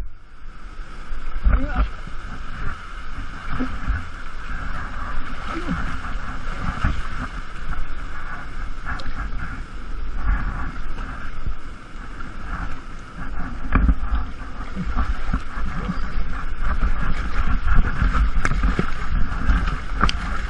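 Rushing waterfall water and strong stream current, steady throughout, with scattered splashes and knocks as a person wades and climbs against the flow.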